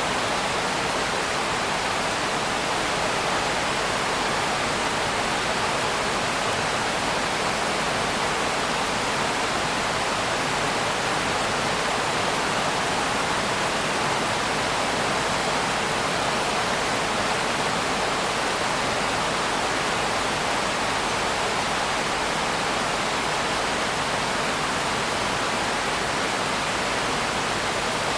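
Steady rain falling, an even unbroken hiss with no letup.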